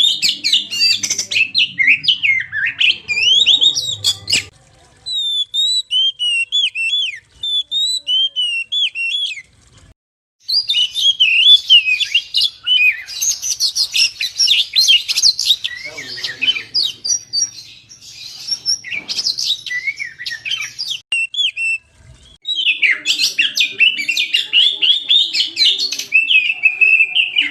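Oriental magpie-robin singing a loud, fast run of varied chirps and whistled phrases, broken by a few short pauses.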